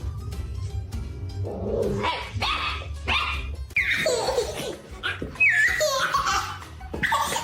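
A baby laughing and squealing in repeated bursts over background music with a steady low beat.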